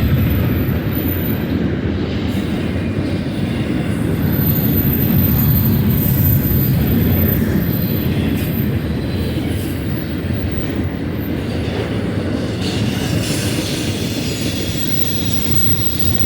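A freight train's cars rolling past on the mainline: a steady, heavy rumble with clatter from the wheels, and a thin high squeal at times.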